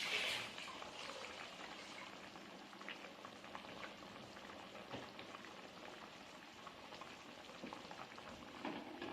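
Food simmering in a pan: a steady bubbling and fine crackling, with a louder hiss in the first half second.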